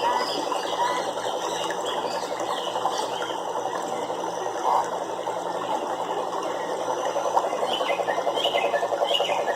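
A chorus of frogs calling together in a steady, rapidly pulsing drone, with a few short high chirps near the end.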